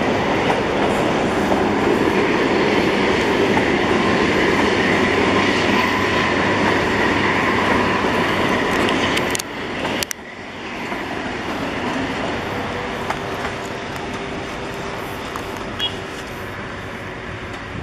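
Passenger train coaches rumbling and clattering over a steel truss railway viaduct, wheels running on the rails. The sound drops out sharply for a moment about ten seconds in, then carries on quieter as the last coaches pass.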